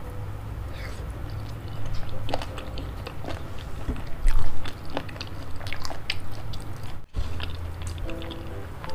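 Close-miked chewing of spicy boneless chicken feet: soft wet mouth sounds with many small clicks and smacks, and a louder stretch about halfway through, over background music.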